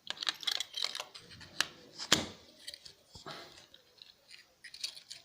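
Small metal parts of a dismantled laptop hard drive being pried at and handled with a hand tool: a quick run of sharp clicks and short scrapes, with one louder knock about two seconds in.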